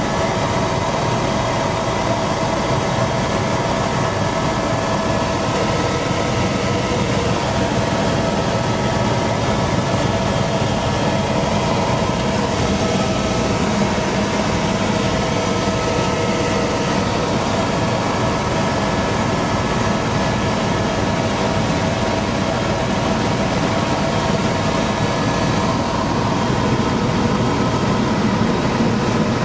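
Helicopter in flight, heard from inside the cabin: steady, loud engine and rotor noise with a few steady whining tones running through it.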